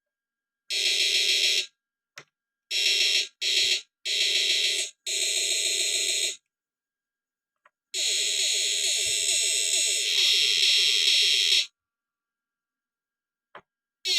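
Small electrofishing inverter buzzing with a harsh electronic whine as it is switched on and off: five short bursts, then one held for about four seconds, with faint clicks in the gaps.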